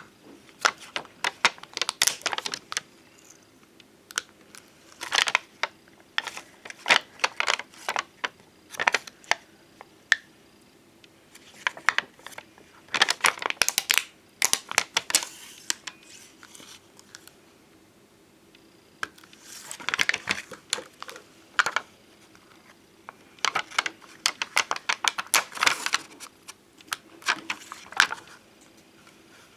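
Glossy bonbon drop and ohajiki dome stickers being handled. Bursts of small clicks, taps and crinkles, each a few seconds long, separated by short pauses.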